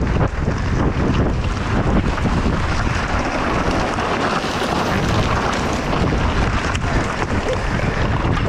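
Wind buffeting the microphone of a mountain bike rider's camera on a fast downhill descent, a steady loud rush, with scattered clicks and rattles from the bike and its tyres over the ground.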